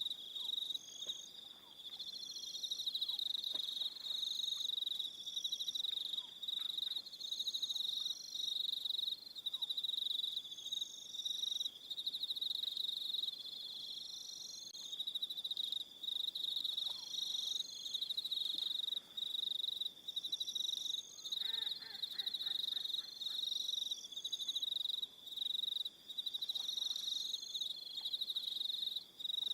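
Evening chorus of crickets chirping in fast overlapping trills, with higher-pitched insect chirps repeating in short bursts above them. A brief lower call cuts in about two-thirds of the way through.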